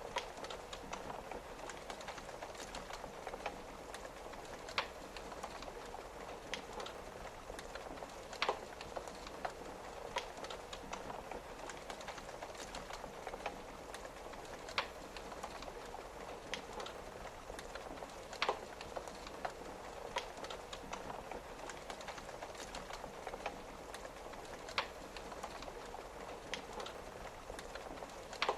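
Wood fire crackling, with small ticks throughout and about half a dozen sharp loud pops spaced a few seconds apart, over a steady hiss of rain on a window.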